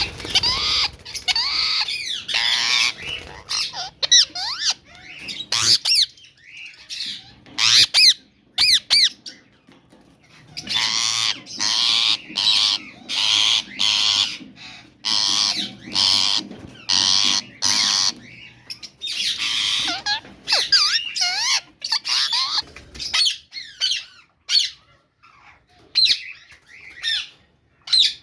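Lovebird chicks squawking in long bouts of repeated calls separated by short pauses, thinning to brief, scattered chirps near the end.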